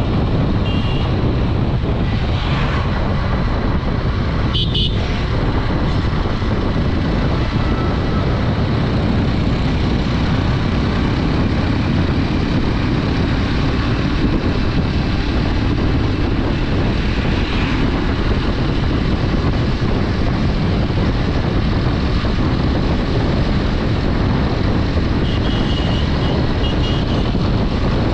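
Honda Dream 110's 110cc single-cylinder four-stroke engine running at steady road speed, mixed with wind rushing over the microphone while riding.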